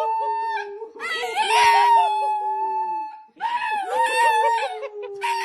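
Dog howling in long, drawn-out held notes, with a short break about three seconds in before a new howl starts.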